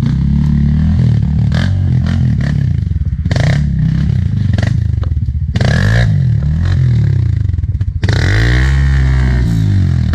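Honda CRF trail bike's single-cylinder four-stroke engine, heard up close, revving up and down again and again as the throttle is worked over rough ground, with a longer rise and fall near the end. Clattering knocks from the bike bouncing over the trail run throughout.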